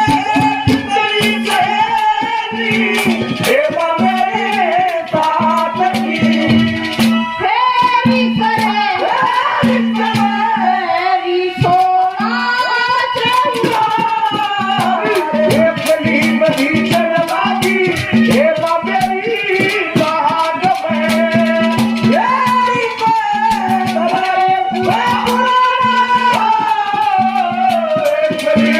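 A Haryanvi ragni sung live over a fast rhythm of drum and rattling percussion, with a held low tone that comes and goes under the voice.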